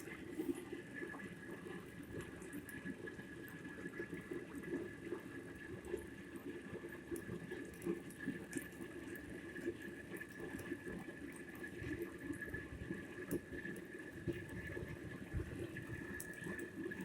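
MPO engine running with its blower turned up: a steady rushing noise, with a steady high whine setting in about a second in.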